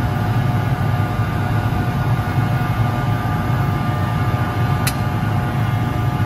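A heavy engine running steadily: a low rumble with steady whining tones over it, and one sharp click about five seconds in.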